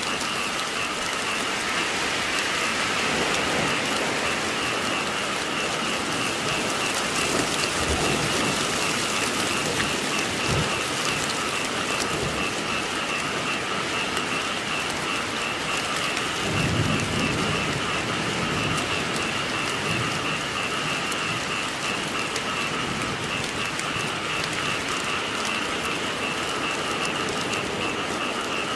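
Steady rain falling, with a chorus of frogs calling in a fast, even pulsing trill throughout. Low rumbles of thunder come and go, the strongest about seventeen seconds in.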